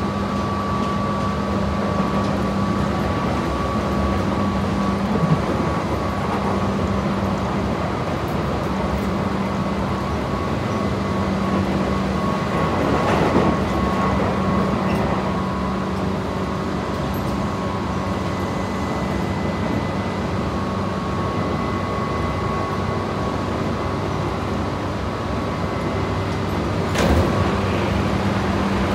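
Interior running sound of a Tobu 8000 series electric train car travelling at steady speed: a continuous rumble of wheels on rail with steady humming tones. Near the end there is a sudden brief rush as another train passes close by.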